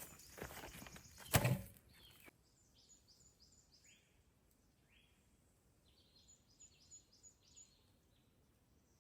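Rustling and handling noises with one heavy knock about a second and a half in, then a quiet forest with small birds chirping in short repeated calls.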